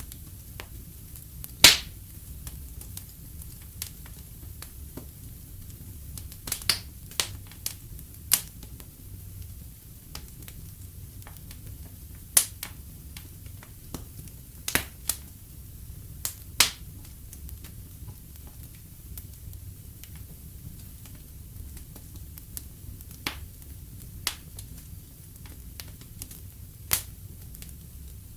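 Wood fire in a fireplace crackling, with sharp, irregular pops every second or two over a low, steady rumble. The loudest pop comes about two seconds in.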